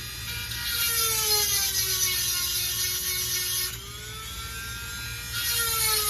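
Dremel rotary tool with a 7/32-inch grinding stone sharpening chainsaw chain teeth. Its high whine drops in pitch with a grinding hiss while the stone bears on a tooth for about three seconds, rises again as it lifts off, and drops with the hiss once more near the end.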